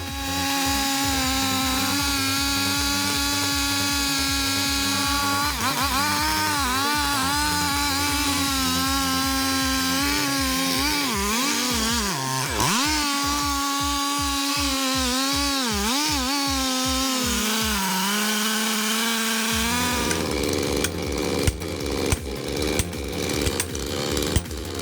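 Stihl MS 661 two-stroke chainsaw running at high revs, its pitch sagging again and again as the chain bites into the wood, then picking back up. About twenty seconds in, the saw gives way to irregular clattering and knocks.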